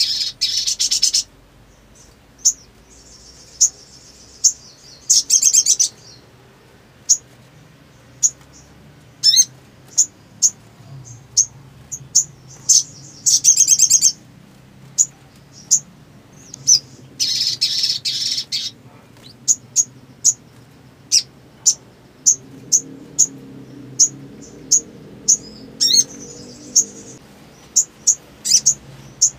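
A sogon (sogok ontong) singing a long run of sharp, high single chirps, broken every few seconds by rapid buzzy trills lasting a second or two. It is loud, energetic song of the kind Indonesian keepers play to stir a quiet bird into singing.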